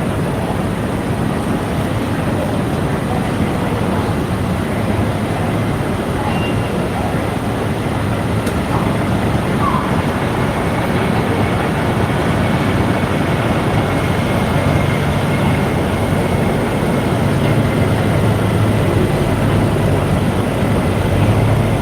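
Steady street traffic noise with a low engine hum that grows a little stronger in the second half.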